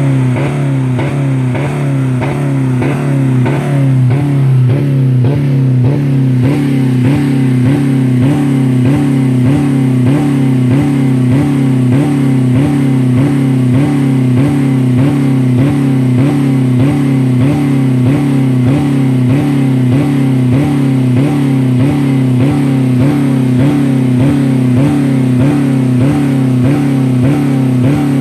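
2000 Dodge Neon four-cylinder engine held on its rev limiter at about 4000 rpm with no oil or coolant in it, a steady hard-running drone that pulses in an even rhythm as the limiter cuts in and out.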